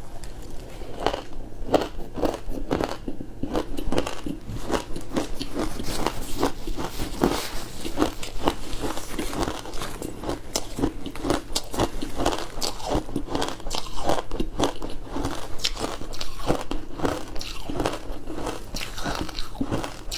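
Close-miked crunching and chewing of frozen food: a rapid, irregular run of sharp cracks as hard frozen pieces are bitten and ground between the teeth.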